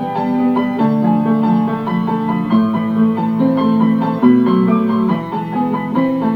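Piano music: chords and a melody line played at a moderate pace.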